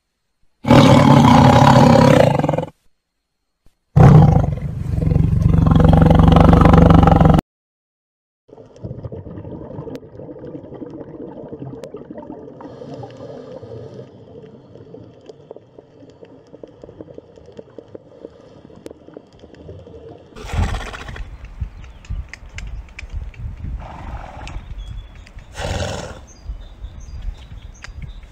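A tiger roaring twice, loud, the first roar about two seconds long and the second about three. A quieter steady sound follows, then near the end a horse calls in three short bursts.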